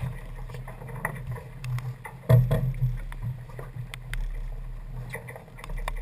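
Sounds aboard a racing sailing yacht under way: a steady low rumble with scattered clicks and knocks of gear, the loudest knock a little over two seconds in.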